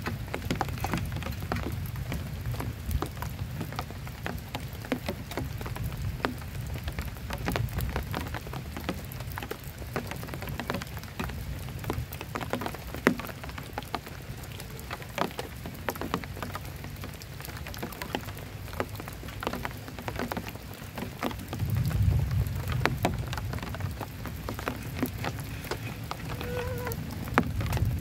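Heavy rain falling steadily, with many individual drops tapping sharply on a nearby surface. A low rumble of thunder swells about three quarters of the way through.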